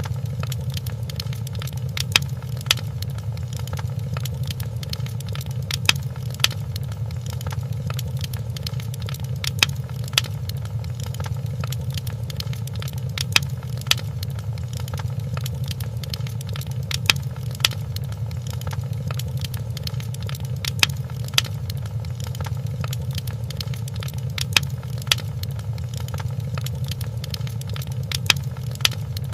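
Wood fire crackling in a fireplace: a dense run of small snaps over a steady low rumble. Louder pops come in pairs about half a second apart, recurring every few seconds.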